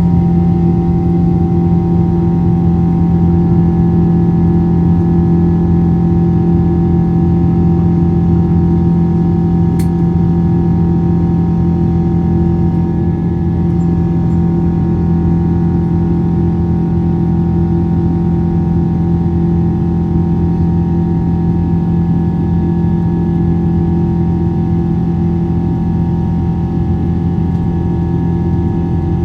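Airliner engine noise heard from inside the passenger cabin: a loud, constant drone with a deep hum and several steady tones over it, unchanging throughout. A single faint click sounds about ten seconds in.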